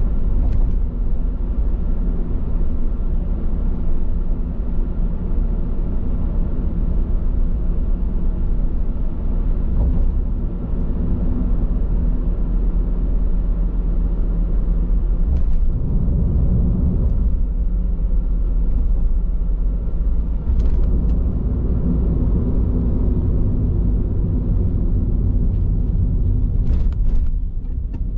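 Car driving on the road: steady low rumble of tyre road noise and drivetrain, with a few faint ticks.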